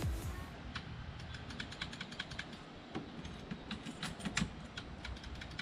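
A run of light, irregular clicks and taps, a couple of dozen over a few seconds, with no steady rhythm.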